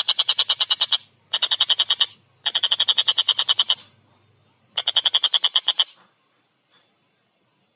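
Tengkek buto (collared kingfisher) calling in four loud bouts of rapid, harsh "kek-kek" notes, about ten notes a second, with short pauses between bouts and a longer silence near the end.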